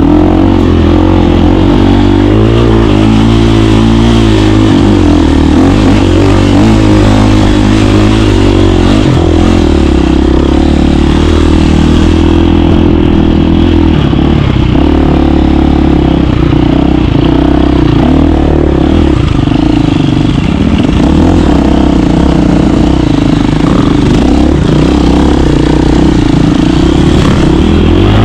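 KTM 350 dirt bike's single-cylinder four-stroke engine running loud under riding load, its note rising and falling with the throttle.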